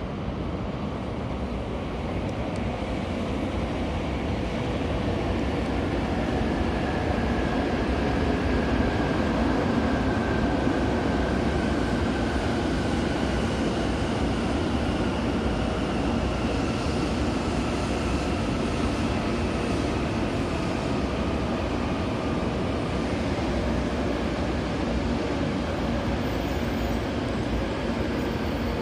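Jōetsu Shinkansen train running out of the station: a steady rumble of the train with faint whining tones that slowly fall in pitch.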